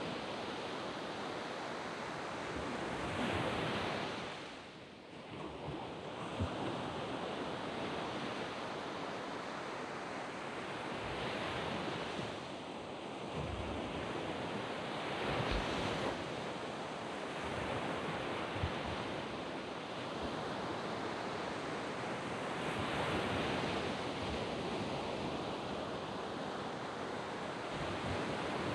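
Surf breaking and washing up a sand beach: a steady wash of waves that swells and eases every several seconds, with a brief lull about five seconds in.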